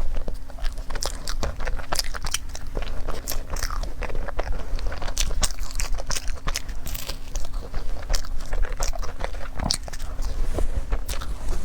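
Close-miked eating of cream puffs: repeated bites and chewing with many crisp, crunchy crackles at an uneven pace. A faint steady hum runs underneath.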